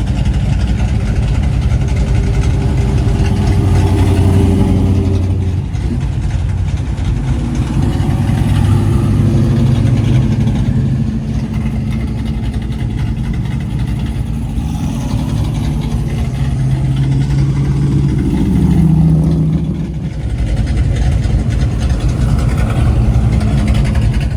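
Classic cars driving past one after another, their engines loud and low, the pitch shifting as each car moves off.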